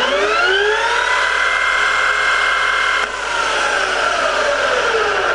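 Three-phase lathe's spindle and gear head running up to its top speed of 2245 rpm: a whine that rises in pitch over the first second or so and then holds steady. After about three seconds it drops slightly in level and the pitch falls as the spindle runs down.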